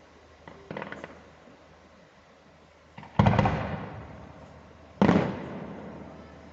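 Fireworks: a few faint crackles about a second in, then two loud shell bursts about two seconds apart, each fading away over a second or so.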